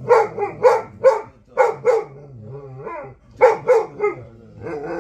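Central Asian Shepherd Dog (alabai) barking and 'talking' back in short, pitched woofs, mostly in pairs, with a lull of softer moaning calls in the middle.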